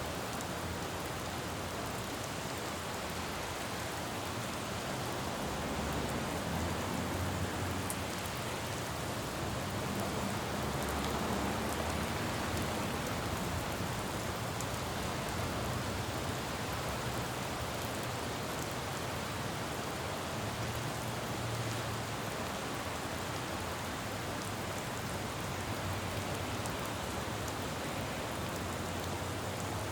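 Steady rain falling on a road, a dense even hiss, with a low rumble of traffic underneath that swells a little about ten seconds in and again past twenty seconds.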